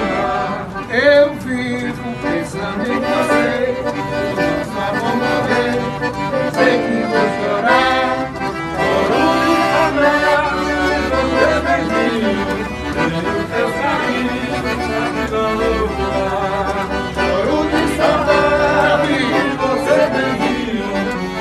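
Accordion (sanfona) playing a tune, melody over sustained chords, without a break.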